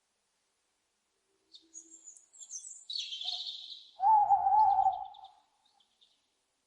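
Owl calls: a raspy, high screech starting about one and a half seconds in, then a loud wavering hoot about four seconds in that lasts about a second.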